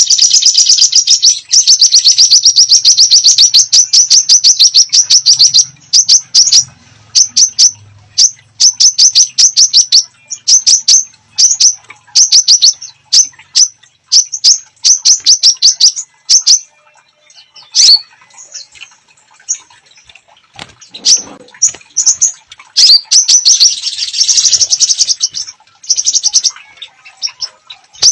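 A caged songbird singing vigorously: rapid trains of sharp, high chirps, about ten a second, in a long unbroken run at first and then in shorter phrases with pauses, with one loud single note past the middle.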